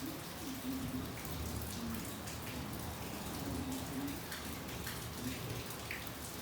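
Rain falling steadily, with individual drops ticking sharply over the even patter.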